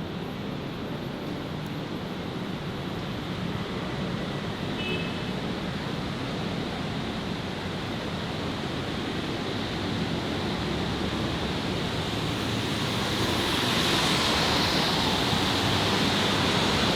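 Steady city street traffic noise, growing gradually louder and swelling most near the end.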